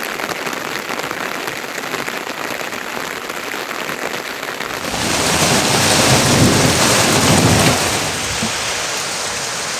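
Steady rain falling. About five seconds in, the rain suddenly grows louder and a low rumble runs under it for about three seconds before easing.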